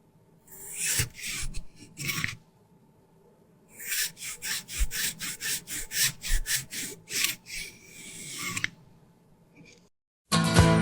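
Repeated rasping, scraping strokes, about three a second, in a short run and then a longer one after a pause.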